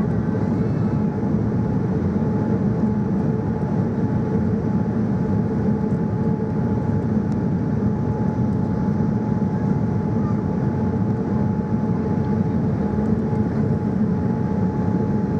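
Steady airliner cabin noise inside a Boeing 787-9: a constant rush of engine and air noise with a faint steady tone held throughout.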